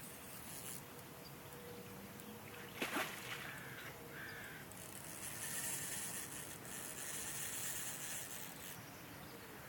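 Faint outdoor ambience with a short knock about three seconds in and a high hiss from about five seconds to near the end.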